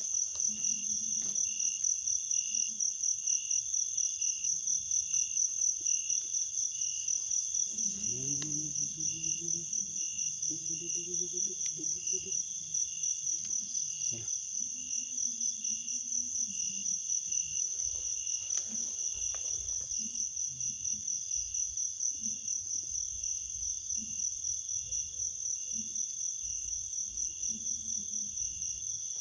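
Crickets chirping in a steady chorus, a fast pulsing high trill that never stops, with a second lower pulsing chirp under it. Faint low scattered sounds come through in the middle.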